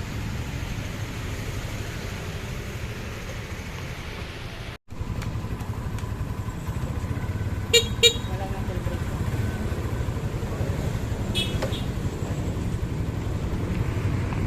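Road traffic: a steady low rumble of vehicle engines, with two short horn toots about eight seconds in and another brief toot a few seconds later.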